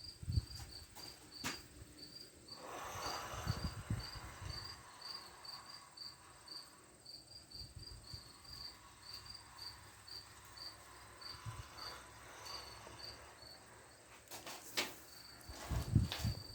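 Cricket chirping in a steady rhythm, about three short high chirps a second, with a few knocks and low bumps of handling near the start and near the end.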